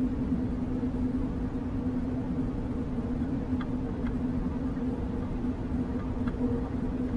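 Passenger train running, heard from inside the carriage: a steady rumble of the running gear with a steady low hum over it and a few faint light clicks.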